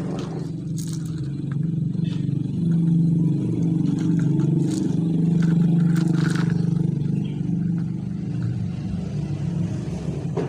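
A motor running steadily with a low, fluttering hum that grows louder in the middle and then eases off, with a few brief scrapes over it.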